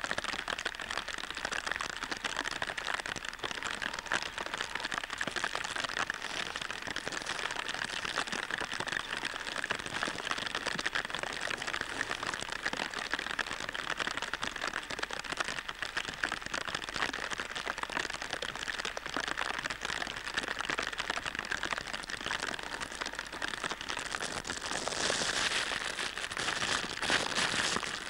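Steady hiss of rain falling, with a louder, brighter stretch of noise for a few seconds near the end.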